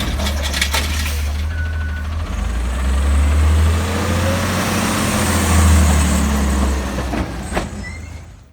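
Garbage truck's diesel engine running with a strong low hum that swells up twice, with a few sharp clicks early on; the sound cuts off abruptly near the end.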